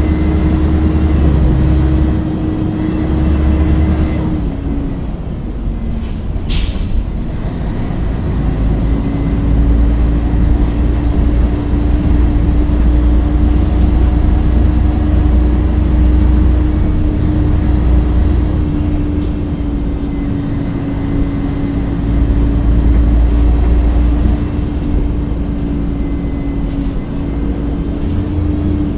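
Scania L113CRL bus under way: its diesel engine running with a heavy low rumble and a steady whine over it. The whine drops out about four or five seconds in and comes back a few seconds later, and there is one brief sharp hiss in between.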